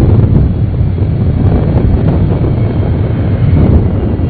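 The four jet engines of the Boeing 747 Shuttle Carrier Aircraft running on its landing rollout just after touchdown, a steady low noise mixed with wind on the microphone.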